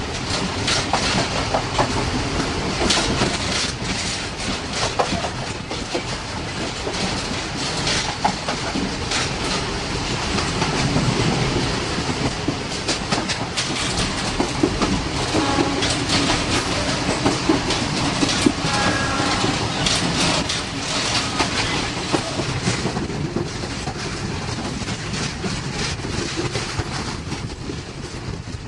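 Train running along the track, its wheels clattering over the rail joints with a steady rumble underneath.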